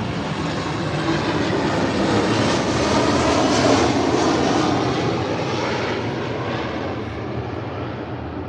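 Aircraft flying past: its engine noise swells to a peak a few seconds in, then fades away.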